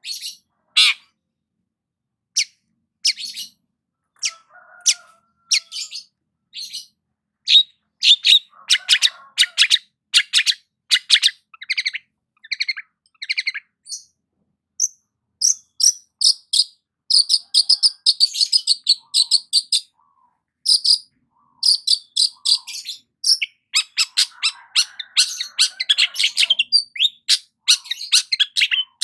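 Long-tailed shrike (cendet) singing: short, high-pitched chirping phrases, scattered at first, then coming in fast, dense runs from about halfway.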